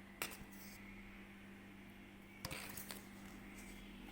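Faint tap of a spoon about a quarter second in and a brief scrape around two and a half seconds in, as maida flour is spooned into the marinade, over a steady low hum.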